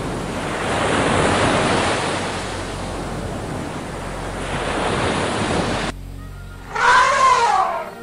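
Surf washing over a sandy, shelly beach, swelling and ebbing for about six seconds and then stopping abruptly. Near the end there is a single loud animal call that rises and falls in pitch, over soft music.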